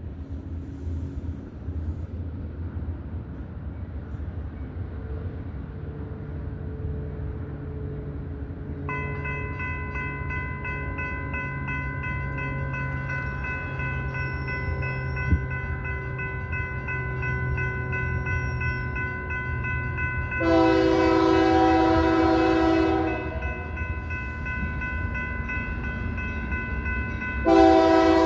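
Diesel freight locomotives approaching with a low rumble that builds steadily. About nine seconds in, a multi-note locomotive horn starts sounding a steady chord and keeps on. It swells into a much louder blast of a couple of seconds about twenty seconds in, and into another near the end.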